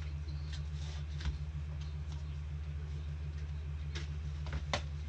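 Steady low electrical hum with scattered small clicks and light rustles of trading cards being handled, the sharpest click near the end.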